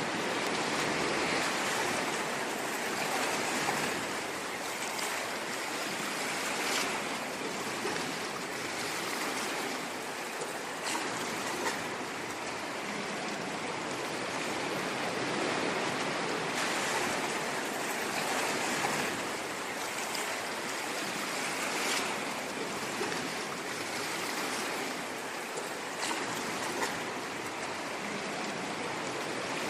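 Ocean waves washing on a shore: a steady wash of surf that rises and eases a little, with faint crackling ticks.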